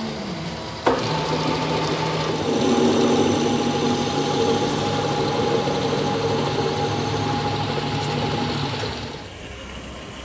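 A motor-driven machine starts with a sharp click about a second in, runs steadily with a humming whine, and shuts off about nine seconds in.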